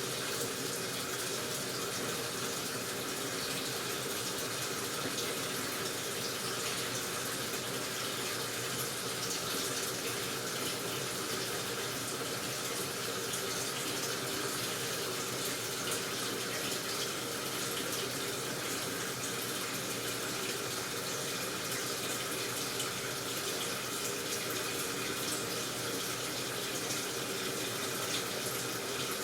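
Steady rush of water running into a washing machine as it fills, unchanging throughout.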